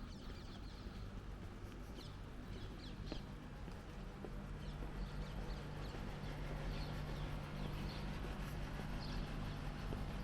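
Birds chirping in short, scattered calls over a city-street background, with a steady low hum that grows louder about four seconds in.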